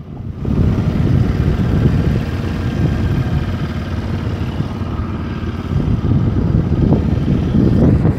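Motorcycle riding along, its engine and road noise mixed with wind buffeting the microphone: a rough, steady low rumble.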